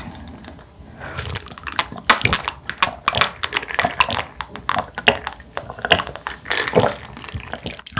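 Close-miked sipping and swallowing of a highball from a glass, with many irregular wet mouth clicks.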